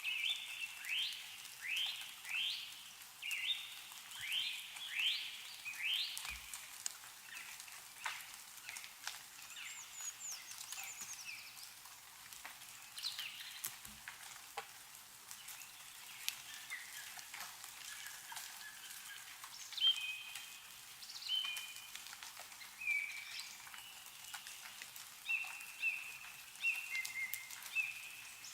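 Birds singing: a run of quick sweeping notes, about two a second, at the start, and short clear whistled notes in the last third. Under them is a steady patter and tick of meltwater dripping from snow-covered trees.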